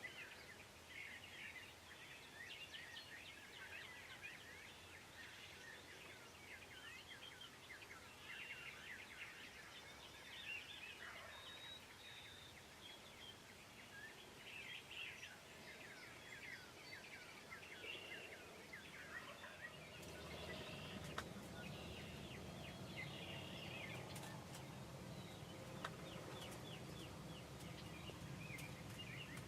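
Faint morning bird chorus: many songbirds chirping, with wild turkeys gobbling in the distance. A low steady noise comes in about twenty seconds in.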